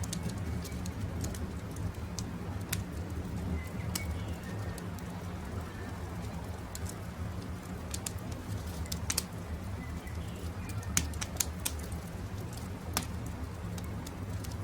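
Wood campfire crackling with frequent sharp pops over a low steady rumble, with a few faint short bird chirps in the background.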